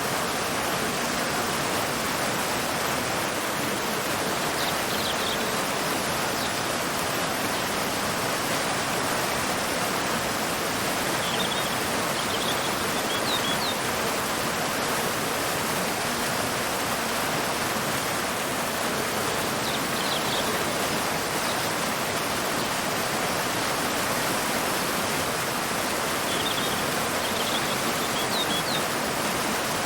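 Waterfall and river water rushing steadily, with small clusters of short, high bird chirps every several seconds.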